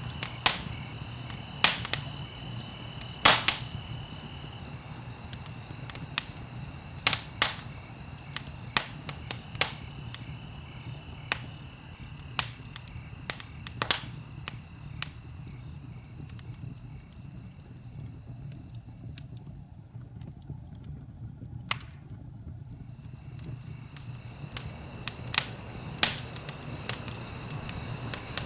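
Wood fire in a fireplace crackling: sharp, irregular pops and snaps over a low, steady rumble of burning. A steady high-pitched tone, like crickets, runs in the background and drops out for a few seconds past the middle.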